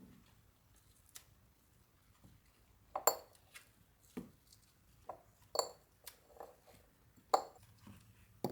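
Hard kitchenware being handled and set down: a string of irregular clinks and knocks, some with a short ring, mostly in the second half.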